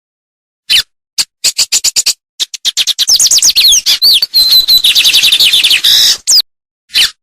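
Songbird singing in short, loud phrases of sharp high chirps and quick falling whistles, with a dense run of notes and a brief trill in the middle and abrupt silent gaps between phrases.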